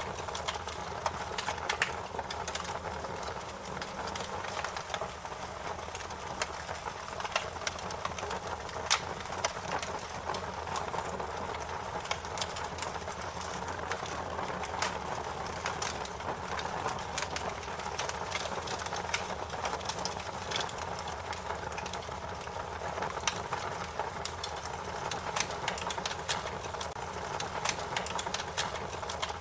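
Wood fire crackling: a steady low rush and hiss with frequent sharp pops and snaps at irregular intervals.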